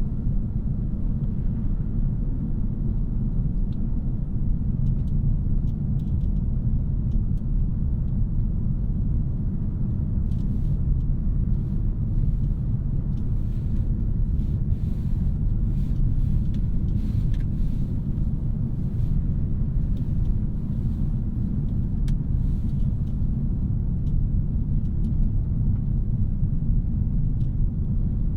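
A 2017 Audi A3 with a 2.0-litre turbo four-cylinder, driving steadily: an even low rumble of engine and road noise. Faint scattered clicks come in about ten seconds in and die away a little after twenty seconds.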